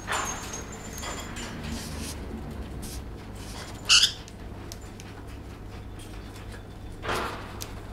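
Lovebird giving one short, loud squawk about halfway through, with softer rustling sounds near the start and near the end.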